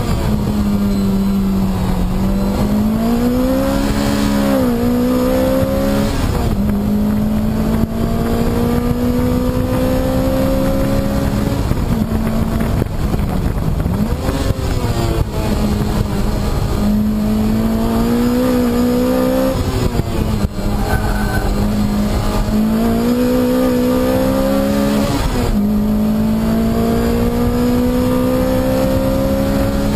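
Lotus Exige engine heard from inside the cabin, driven hard on a lap of a race track: its note climbs steadily through each gear, then drops sharply at each gear change or lift for a corner, about every two to six seconds.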